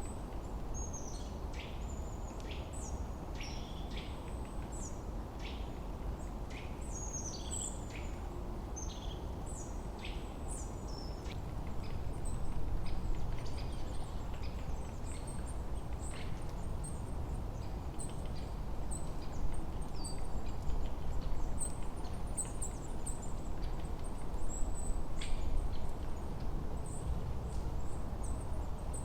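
Several songbirds chirping and twittering over a steady low rush of wind. Short falling chirps come quickly in the first half, then higher, thinner twitters take over.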